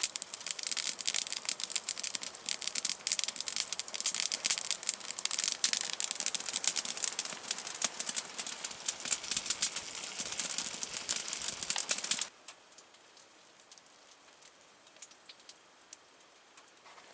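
Burgers frying in a pan: a dense, steady sizzle and spatter of hot fat that cuts off abruptly about twelve seconds in, leaving only faint room tone.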